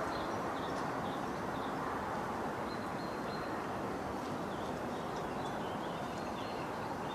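Steady wind noise with small birds chirping faintly.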